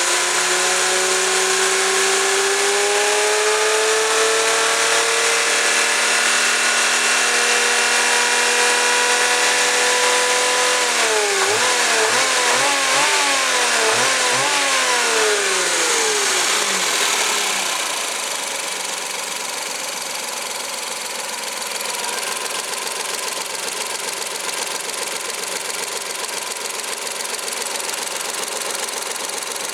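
Suzuki K6A 660 cc three-cylinder engine running under test: it revs up and holds a raised speed, then is blipped up and down about five times in quick succession before dropping back to a steady idle about seventeen seconds in.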